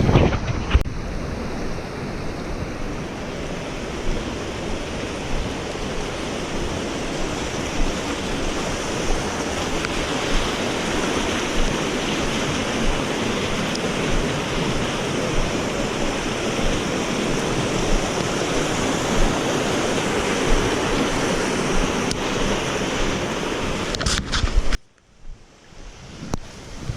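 Wind buffeting the microphone in a storm, a steady rushing noise with low rumbling. It cuts off suddenly near the end, leaving a much quieter hiss.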